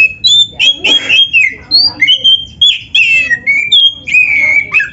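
Oriental magpie-robin (kacer) singing a fast, varied song of short whistled notes that slide up and down, mixed with harsh squawky notes, one of them about a second in.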